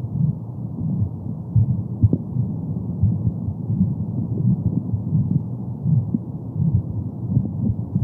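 Womb sound for soothing a baby: a muffled, deep whooshing with a maternal heartbeat pulsing through it, all sound dull with no high end.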